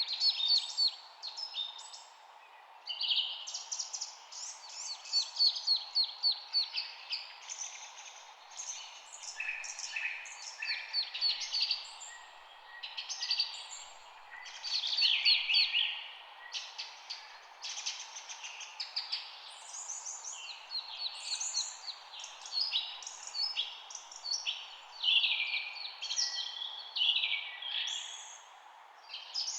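Several songbirds singing and chirping in quick, overlapping phrases of rapid repeated notes, over a steady background hiss.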